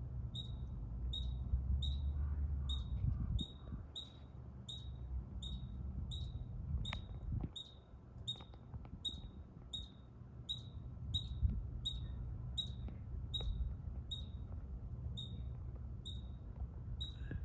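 A high, short chirp repeated steadily, a little under two a second, over a low rumble.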